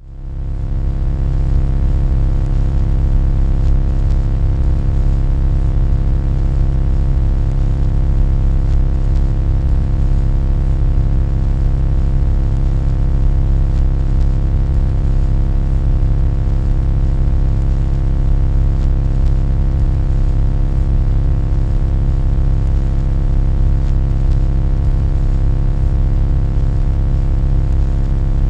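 A loud, steady low rumbling drone with a constant layered hum over it, played as an annoying noise. It fades in over about the first second and then holds unchanged.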